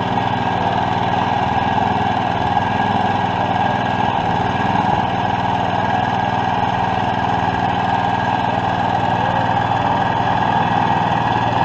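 Walk-behind DR Field and Brush Mower's gasoline engine running at a steady speed.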